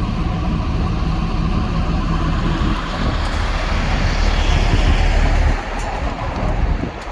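Heavy diesel vehicle engine running close by, a steady low rumble with road or tyre noise, which drops suddenly about five and a half seconds in.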